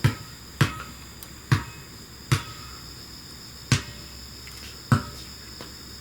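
Six short, sharp clicks or taps at uneven intervals, over a faint steady high-pitched background tone.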